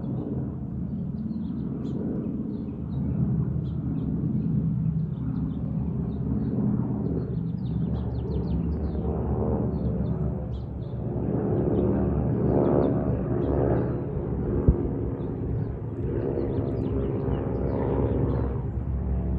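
Steady low engine rumble with a droning hum that swells and fades, and short high chirps throughout.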